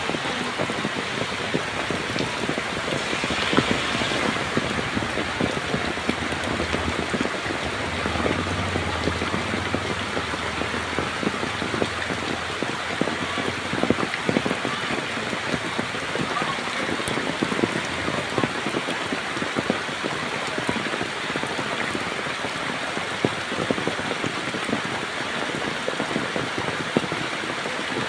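Heavy rain falling steadily, dense drops striking surfaces in a continuous hiss of many small sharp taps.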